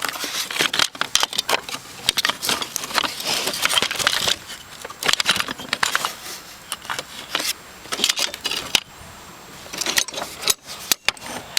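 Dense, irregular clicking and rattling, a rapid run of sharp knocks that thins out near the end.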